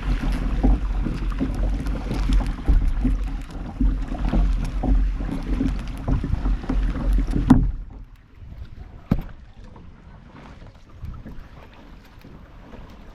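Kayak paddling on open water heard from a camera in the boat: wind rumbling on the microphone along with paddle splashes and hull knocks. About halfway through, the rumble cuts off suddenly, leaving quieter water sounds and a few small knocks.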